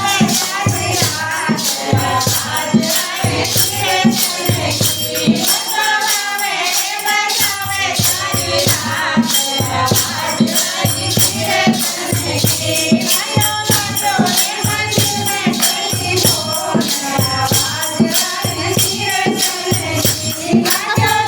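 Hindi devotional bhajan: singing over a steady beat of drum and rattling, shaker-like percussion.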